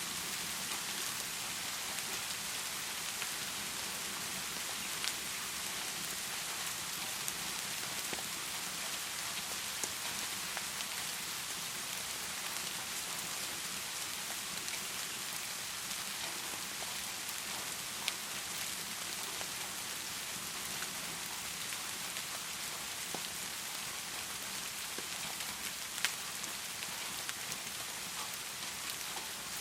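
Heavy rain falling steadily, an even hiss broken by a handful of sharp single ticks, the loudest two in the second half.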